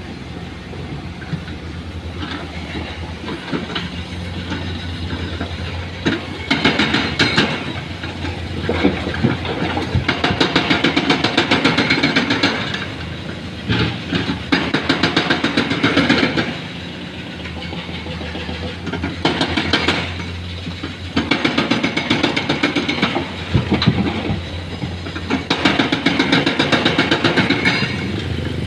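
Komatsu excavator's hydraulic breaker hammering rock in several bursts of rapid blows, each lasting a few seconds. The excavator's diesel engine runs steadily between and under them.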